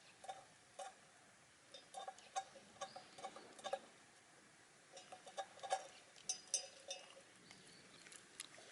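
Shiba Inu chewing chicken wing tips, the bones crunching and crackling in bursts with short pauses between.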